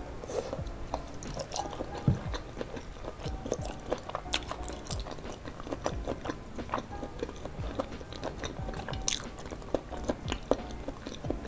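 Chewing and biting on a mouthful of boneless chicken feet in a thick spicy sauce: a steady, irregular run of short wet clicks and smacks.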